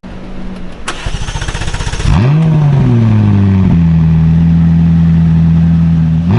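McLaren 570S's twin-turbocharged 3.8-litre V8 starting up. The starter cranks for about two seconds, then the engine catches with a quick flare of revs and settles into a steady idle, dropping a step lower just before four seconds in.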